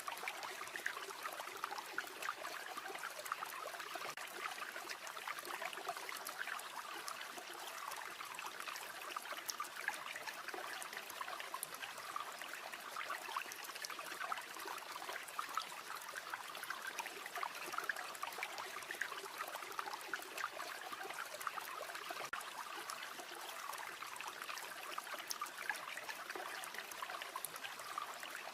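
A river or stream flowing steadily with a rushing, babbling sound, dotted with many small crackles of a campfire.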